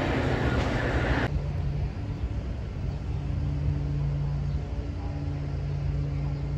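Diesel commuter train: a loud rushing rumble as it approaches, which cuts off abruptly about a second in. Then comes a quieter, steady low drone with a constant hum from a train further down the line.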